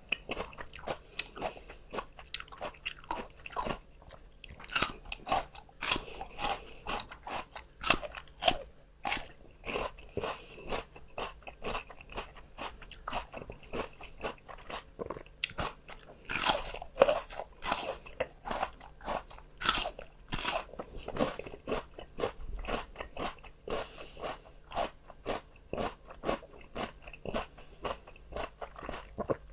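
Close-up crunching and chewing of raw vegetables: a run of sharp crisp bites, followed by fast rhythmic crunching as they are chewed. The loudest bites come around five to nine seconds in and again around sixteen to twenty-one seconds in.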